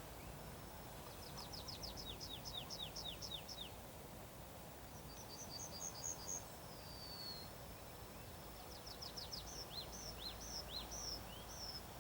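Songbird singing: three phrases of quick, high, downward-slurred notes, starting about a second in, in the middle, and near the end.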